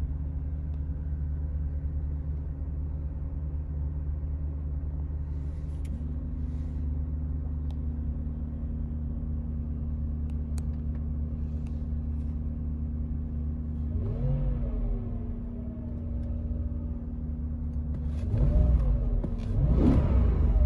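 2012 Porsche Cayenne S's 4.8-litre V8, still cold after a cold start, heard from inside the cabin. It idles steadily, its note settling slightly lower twice, then gets a short throttle blip about fourteen seconds in and two sharper revs near the end, the last up to about 4,000 rpm.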